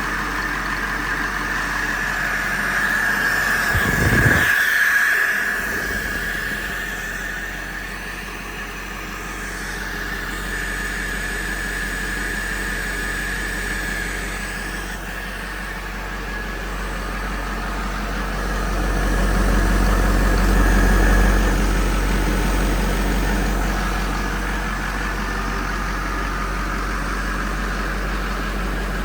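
2011 International MaxxForce 7 6.4-litre V8 turbo diesel engine running at a steady idle, with a high-pitched whine over it. The sound swells twice, about four seconds in and again around twenty seconds.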